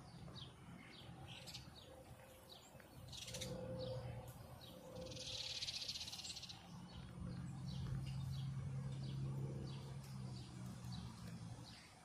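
Small birds chirping: short, high chirps repeating about every half second. A brief harsh hiss comes about five seconds in, and a low steady hum sets in at about seven seconds and stops just before the end.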